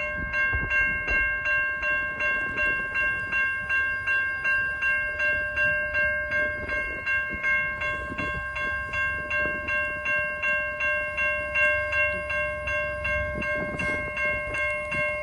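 Railway level crossing bell ringing steadily at about three strokes a second, over the low rumble of a train.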